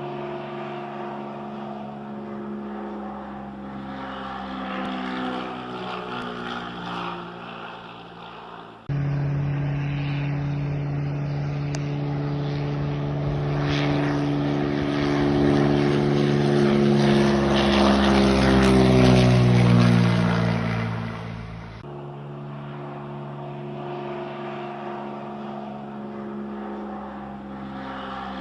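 Propeller engine of a low-flying crop-spraying light plane droning steadily. It jumps louder about a third of the way in, and its pitch falls as it passes closest, about two-thirds of the way through, before it drops back to a quieter drone.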